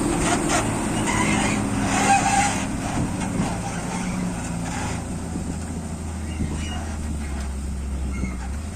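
Heavy diesel engine of earthmoving machinery running steadily, with a few knocks and clanks in the first three seconds.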